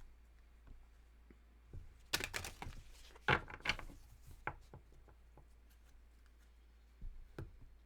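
Tarot or oracle cards being handled and laid on a table: groups of short taps and slaps with light rustling, the loudest a little after two and three seconds in, and another pair near the end.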